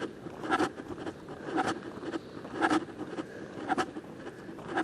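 Footsteps walking on a trail, a short scuffing step about once a second.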